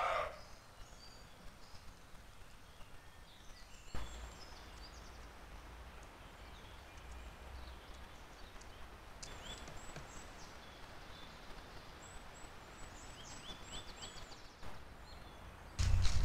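Faint woodland ambience with a steady hiss and distant birds singing, giving short runs of high chirps about nine seconds in and again a few seconds later. A louder low rustling rumble starts near the end.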